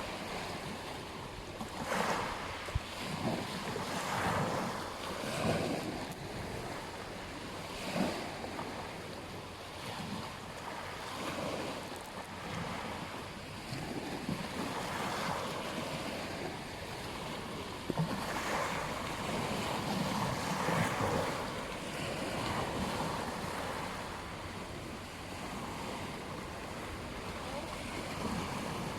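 Ocean waves breaking and washing on a beach, in uneven surges every few seconds, with wind buffeting the microphone.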